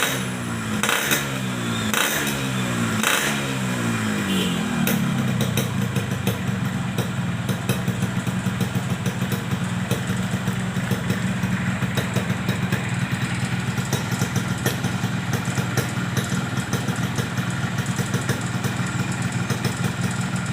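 Yamaha RX-King's 135cc two-stroke single-cylinder engine running through a hollowed-out (bobokan) muffler. For the first four seconds the throttle is blipped about once a second, the pitch falling after each blip; it then settles into a steady, rapid-pulsing idle.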